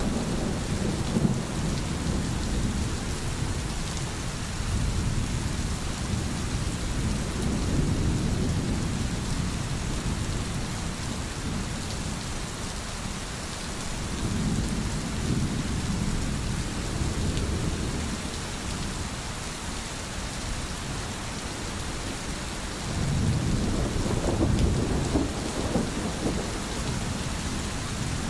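Steady rain, with low rolling thunder that swells and fades three times: around a quarter of the way in, in the middle, and again near the end.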